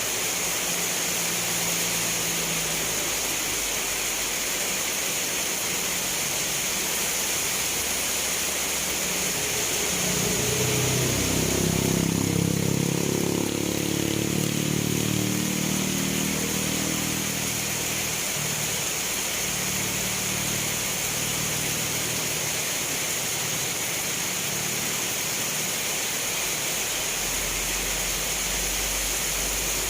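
Steady rain falling, a constant hiss. In the middle a low rumble swells up and fades away over several seconds.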